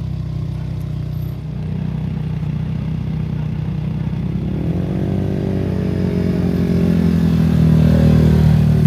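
An off-road race vehicle's engine running steadily, then rising in pitch and growing louder from about halfway through, loudest near the end as it comes close.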